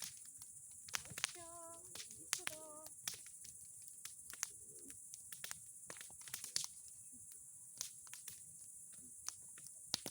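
Bonfire of boards and pine cones crackling, with irregular sharp pops and snaps. Two short pitched calls come about one and a half and two and a half seconds in.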